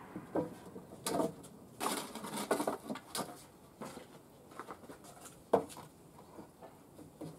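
Irregular knocks and clatter of wooden deck parts and tools being handled, with the loudest knock about five and a half seconds in.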